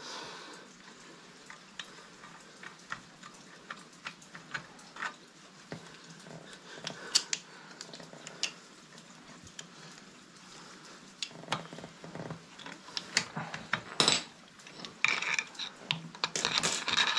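Scattered light metallic clinks and scrapes of hand tools and motorcycle parts being handled, with a busier run of clicks near the end.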